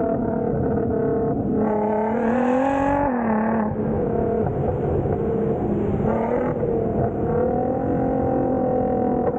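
Nissan GT-R's twin-turbo V6 with downpipes and a straight-piped exhaust, running loud under way. Its pitch climbs under throttle about two seconds in, drops suddenly near three seconds as the throttle comes off or a gear changes, and rises gently again around seven seconds.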